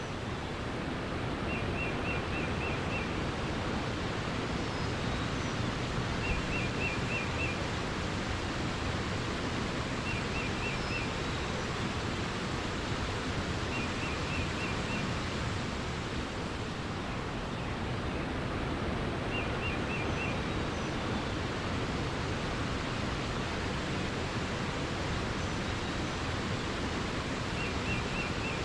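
Steady rush of flowing water, with a songbird repeating a short phrase of five or six quick high notes every few seconds and fainter chirps in between.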